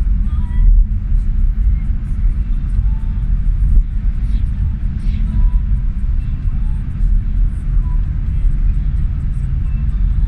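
Truck traffic in a motorway jam: a loud, steady deep rumble of heavy engines and rolling vehicles.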